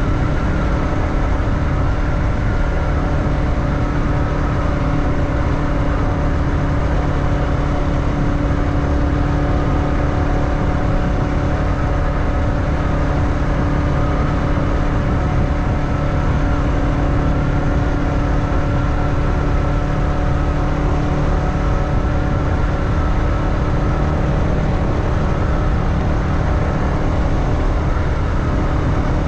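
Motorbike engine running at a steady, even speed while riding, with wind noise rushing over the microphone.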